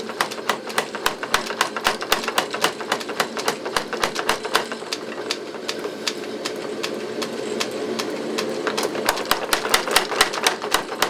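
25 lb Little Giant trip hammer pounding hot steel in a rapid, even beat of about four to five blows a second, over the steady hum of its running motor. The blows soften for a few seconds in the middle, then come hard again near the end.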